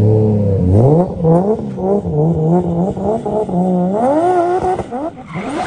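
Drift car's engine revving hard as the throttle is worked in a drift. After a steady held note, the pitch rises and falls every fraction of a second, with one longer climb about four seconds in.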